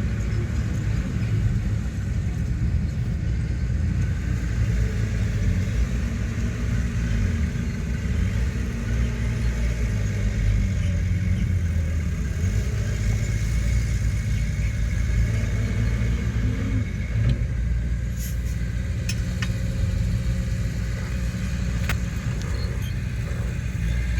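Heavy diesel earthmoving machinery running steadily, its engine pitch wavering a little as it works. A few sharp clicks or knocks come near the end.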